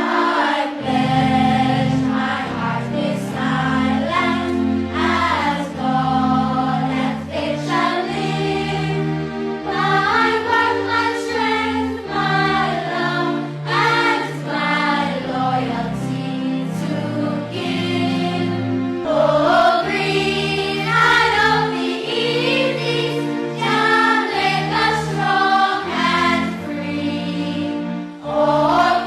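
Music with a choir singing over sustained chords.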